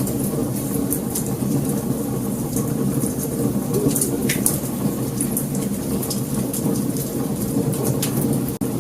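Wood fire crackling: frequent sharp pops and snaps over a steady low rumble of burning, with one louder crack about four seconds in.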